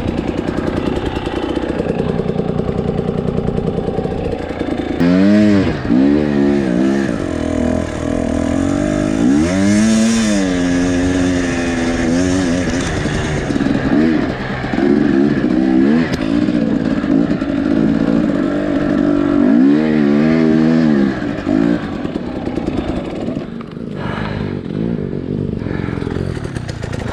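Two-stroke dirt bike engine pulling slowly through deep sand, the revs rising and falling again and again as the throttle is worked, with bigger rev swings several times.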